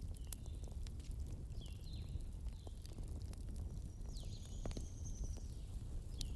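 Wood fire crackling: scattered sharp pops and snaps over a low steady rumble. Faint short high chirping whistles come now and then, with one longer whistle about four seconds in.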